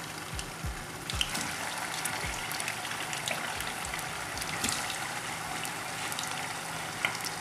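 Seasoned chicken breast pieces sizzling and crackling in hot vegetable oil in a frying pan. The sizzle grows louder about a second in as more pieces go into the oil.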